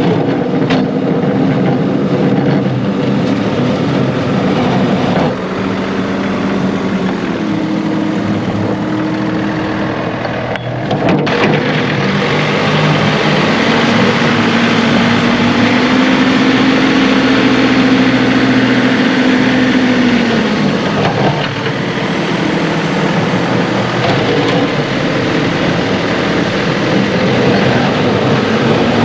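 John Deere 2038R compact tractor's three-cylinder diesel engine running steadily while clearing snow. Its note rises about halfway through, holds for several seconds, then drops back.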